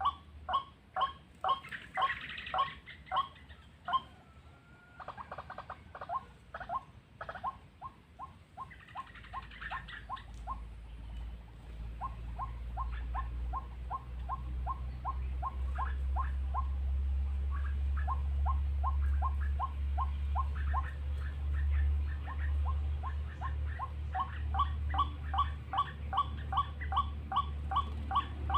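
White-breasted waterhen calling: one short note repeated over and over at about three a second. A low steady rumble sets in about a third of the way through.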